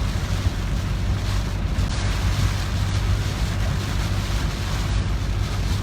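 A car driving through a typhoon: a steady rush of wind and rain over a continuous low road rumble.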